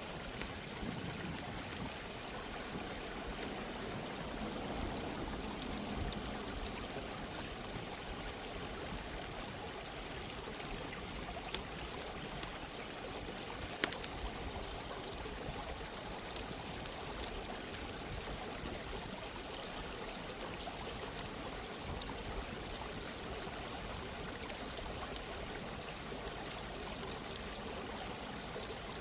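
Steady running water, a stream's continuous rush, with scattered sharp crackles and pops of a campfire at irregular moments; the loudest pop comes about fourteen seconds in.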